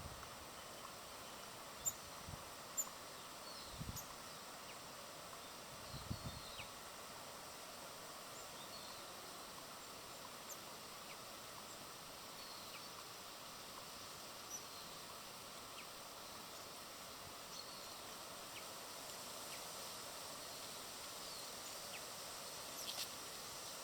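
Outdoor ambience at a bird feeder: faint, scattered short bird chirps over a steady background hiss, with a few soft low thumps in the first several seconds.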